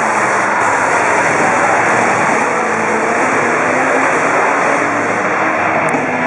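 Off-road competition truck's engine running hard at high revs, a loud steady drone that holds throughout.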